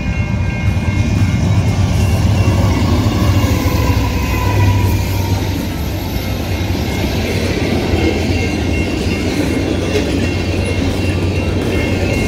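Low, steady rumble of a train passing, with background music laid over it.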